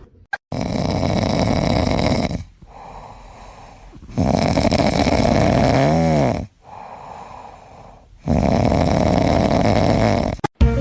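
Loud snoring: three long snores about four seconds apart, with quieter breathing between them. The middle snore ends in a brief whistling tone that rises and falls.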